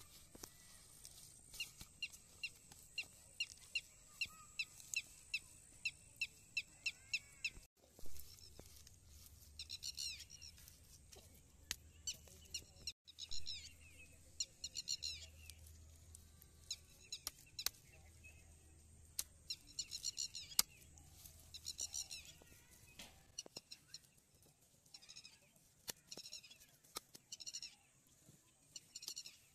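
Birds chirping over and over, short high calls coming about twice a second at first, then in quick bunches, with a few sharp clicks from wet mud and the plastic pipe being handled.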